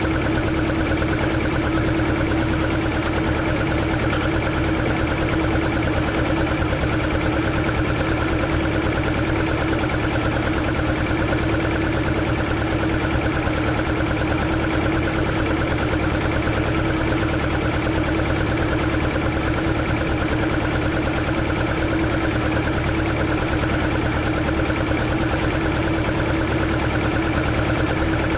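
AE101-swapped 4A-GE engine in an AE86 idling steadily, an even drone with a constant tone and no change in speed.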